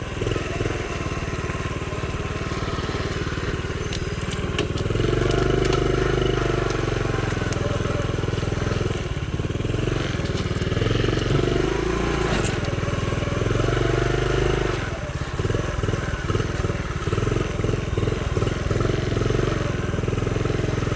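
Honda CT70's small single-cylinder four-stroke engine revving in repeated surges as the bike is worked through sticky mud, then in short choppy throttle blips near the end.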